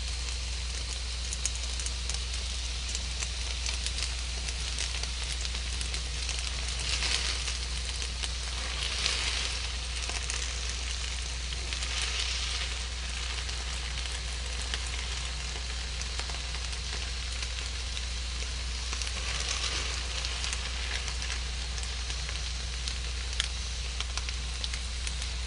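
Hakka noodles sizzling and crackling as they stir-fry in a hot pan, swelling louder a few times as they are stirred.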